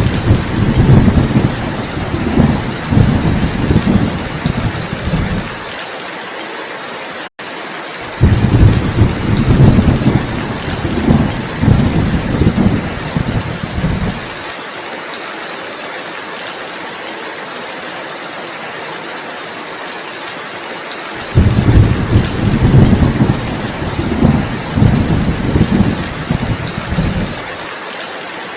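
Steady heavy rain with three long rolls of thunder, each rumbling low for about six seconds before dying back to the rain alone. A momentary silent gap cuts through about seven seconds in.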